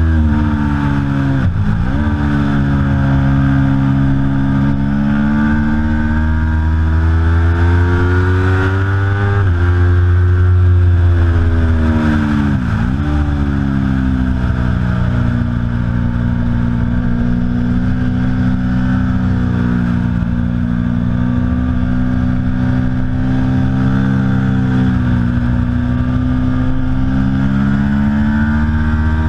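Aprilia Tuono V4 Factory's V4 engine at track speed. Its revs drop sharply and climb again twice, about two seconds in and again near the middle, with a quick gear change in between, then hold fairly steady through the second half.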